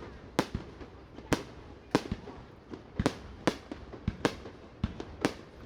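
Aerial fireworks shells bursting in quick succession: sharp bangs, about two a second at irregular intervals, each with a short trailing tail.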